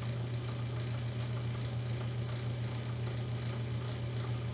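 A 1940s wire recorder running with a steady low hum, its drive motor turning the wire-feed mechanism, which is feeding the wire smoothly.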